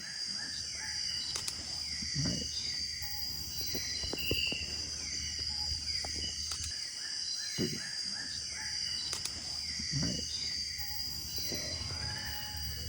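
Rainforest ambience: a steady high insect drone with a short falling call repeated about twice a second, and a few soft low sounds and clicks near the microphone.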